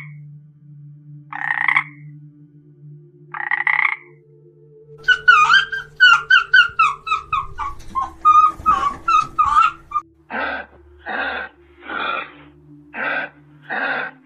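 A toad croaking three times, short calls a second or two apart. Then a fennec fox yipping in a rapid run of high chirps that fall in pitch. Then an animal's short harsh calls, repeated about every 0.7 s.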